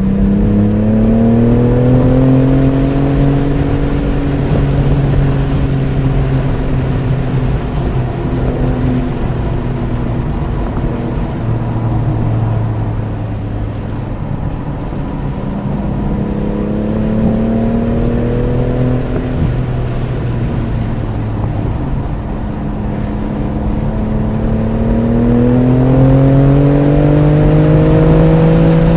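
BMW F80 M3 Competition's twin-turbo inline-six running hard on a race track, its pitch rising as it accelerates and falling as it slows, in three long pulls. Steady road and wind noise lies under it.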